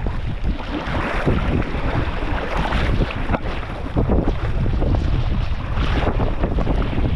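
Wind buffeting the microphone with a steady low rumble, over the splash and wash of water around a boat on the river.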